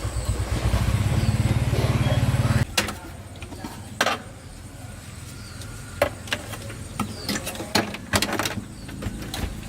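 A motor running with a fast, low, pulsing rumble that cuts off abruptly a little under three seconds in, followed by scattered sharp metallic clinks and knocks.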